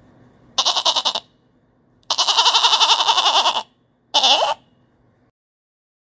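Goat bleating three times: a short wavering bleat, a long one of about a second and a half, and a short one near the end.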